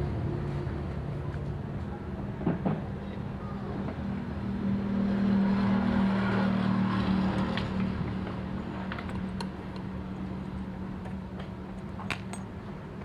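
An engine running steadily, growing louder in the middle and then easing off, with a few sharp clicks near the end.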